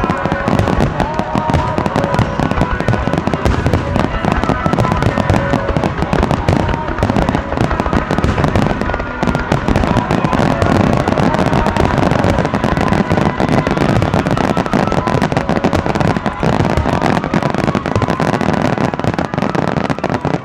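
Dense, continuous barrage of fireworks going off, bangs and crackles following one another with no gap, with a few steady tones sounding through it.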